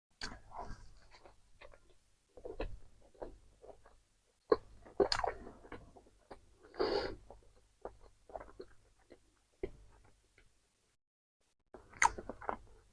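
Chewing and wet mouth smacks of someone eating a KFC meal, in irregular short bursts with pauses between them, and a longer mouth sound about seven seconds in.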